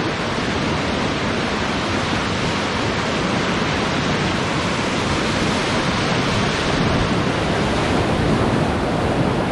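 Whitewater river rushing steadily.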